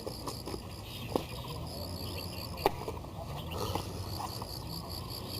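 Crickets chirping in a steady run of rapid, even pulses, with two sharp clicks about one and two-and-a-half seconds in.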